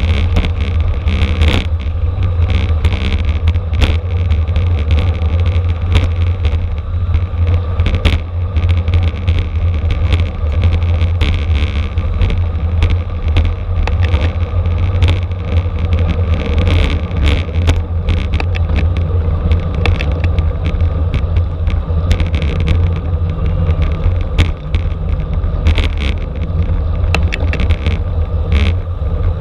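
Steady heavy rumble of wind buffeting the microphone and road noise from a racing bicycle ridden at speed, with frequent small rattles and knocks.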